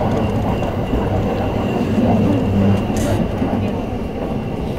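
Yokosuka Line commuter train running between stations, heard inside the carriage: a steady low rumble and motor hum with a faint high whine. A brief hiss comes about three seconds in.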